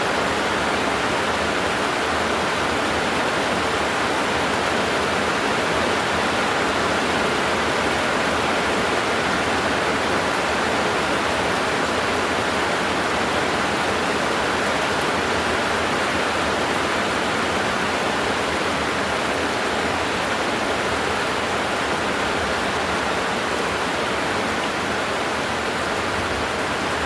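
Very heavy rain pouring down steadily, an even unbroken rush with no thunder inside this stretch.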